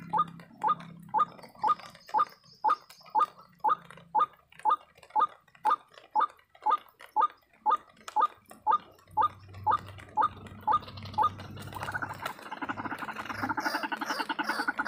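White-breasted waterhen (ruak-ruak) calling: a steady series of short, evenly spaced notes, about two and a half a second, breaking near the end into a louder, rapid gurgling chatter.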